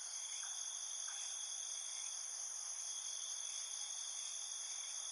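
Steady, high-pitched insect chorus like crickets, with faint short chirps recurring underneath.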